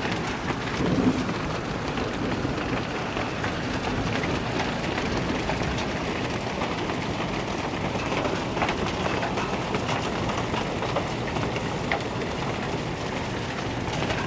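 Hail and rain coming down hard, a steady hiss with scattered sharper clicks of hailstones striking.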